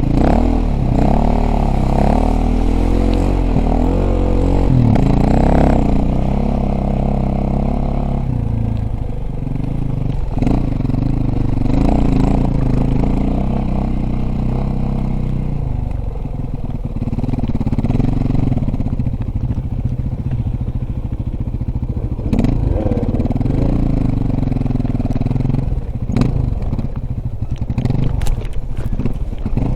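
Dirt bike engine running, its pitch rising and falling with the throttle in the first several seconds, then steadier. Scattered sharp knocks and clatter come near the end.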